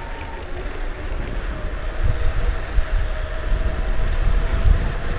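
Ride noise from a Kukirin G2 electric scooter: heavy wind buffeting on the microphone that grows louder, with a faint thin whine from the scooter's electric motor rising slightly in pitch as it picks up speed.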